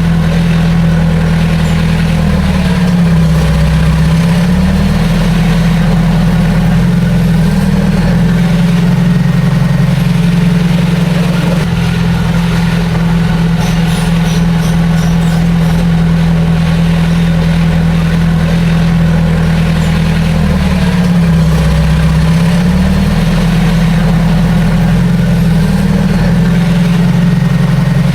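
Heavy diesel engine of earthmoving machinery running steadily, its pitch dipping briefly and recovering twice.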